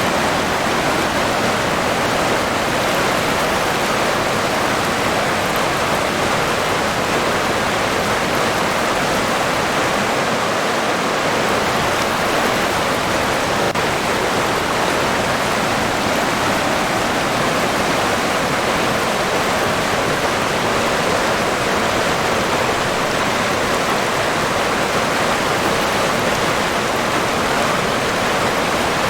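River water flowing and rushing steadily, an even, unbroken hiss without individual splashes.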